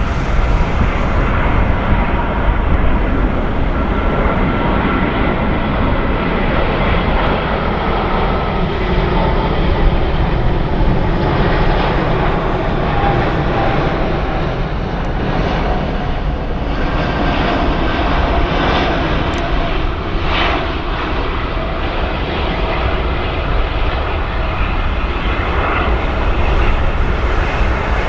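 Jet airliner engines running loud and steady: a deep rumble with a faint whine over it.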